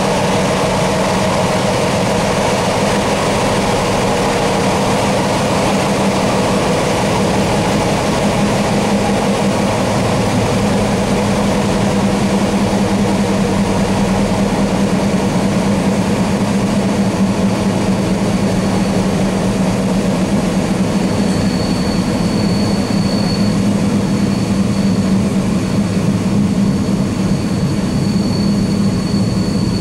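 Steady running noise of a passenger train at speed, heard from inside the train: a constant low hum under a rushing noise. A thin high whine joins in a little past halfway.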